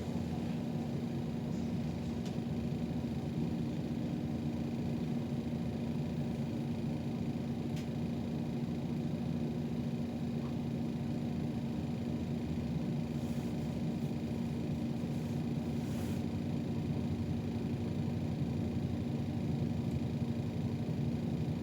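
City bus running, heard from inside: a steady low rumble with a constant hum, and a few faint light rattles or clicks partway through.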